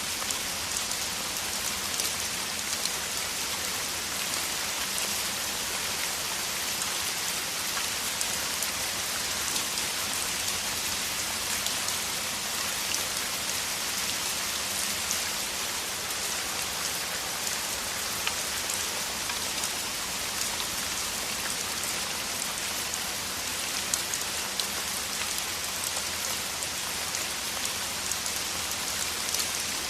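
Heavy rain falling steadily in a downpour: a dense, even hiss with scattered louder drop hits.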